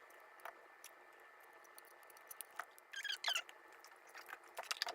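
Faint handling sounds from the Canary device and its micro USB power cable as they are set down and plugged in: scattered small clicks and taps, with a few short squeaky scrapes about three seconds in and a cluster of clicks near the end.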